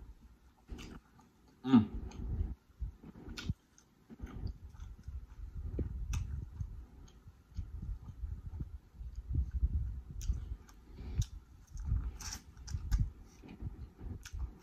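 Close-miked chewing of boiled prawn and corn on the cob, with irregular wet mouth sounds and sharp smacking clicks. One louder, briefly pitched mouth sound comes a little under two seconds in.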